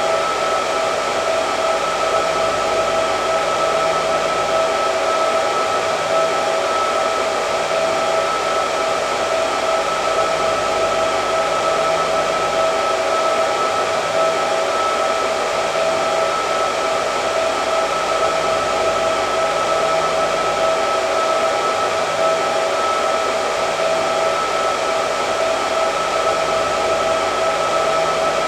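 Hair dryer running steadily: an even rush of blown air with a steady whine in it.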